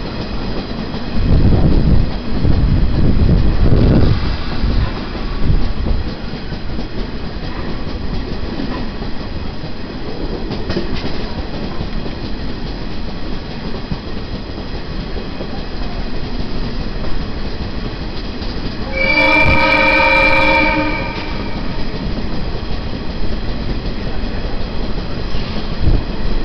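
A train running slowly along the track with a steady rumble. About three quarters of the way through it gives one horn blast lasting about two seconds. It is running at reduced speed, and sounding its horn, because a level-crossing barrier bar is broken.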